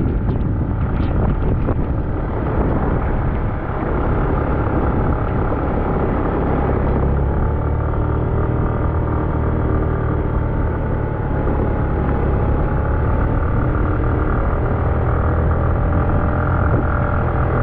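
Motorcycle engine running steadily under load while climbing a steep road, its pitch drifting slightly up and down over a constant low rumble.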